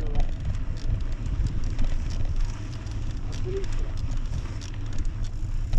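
Wind buffeting a body-worn microphone on a bicycle ride, a steady uneven rumble, with many small crackling ticks from the tyres rolling over a dirt trail.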